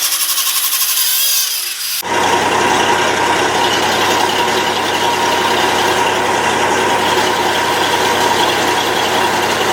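A slowly falling whine for about two seconds, then an abrupt cut to an engine running steadily and loudly close by, with a low, even hum.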